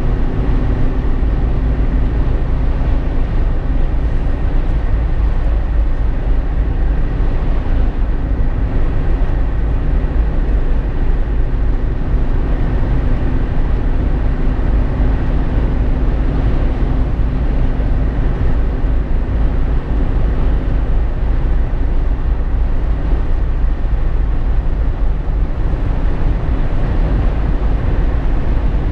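Steady road noise inside a Jeep Wrangler JK's cabin at driving speed: a loud low rumble of tyres, engine and wind, with a faint steady hum in it.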